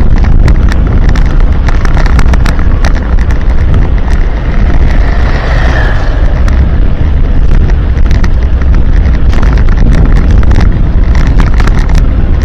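Strong wind buffeting the microphone while riding at speed, a loud, constant low rumble with frequent crackles.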